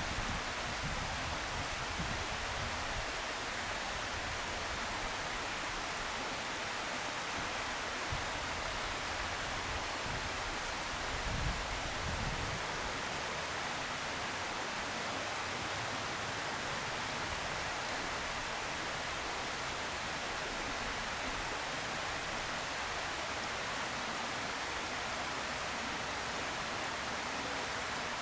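Steady, even hiss with no distinct sounds in it. Low rumbles come and go during the first twelve seconds or so.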